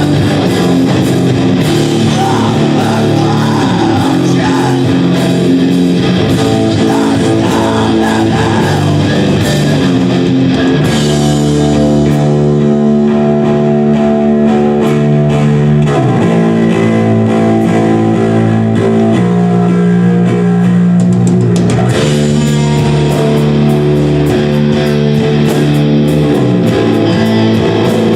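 Live rock band playing loud guitar-led music, with held chords that change every few seconds.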